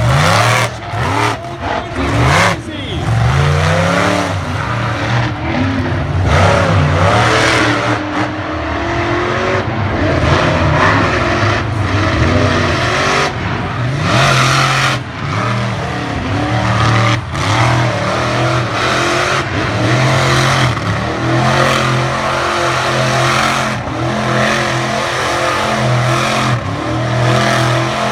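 Monster truck engines revving hard, the pitch rising and falling as the trucks throttle up and back off.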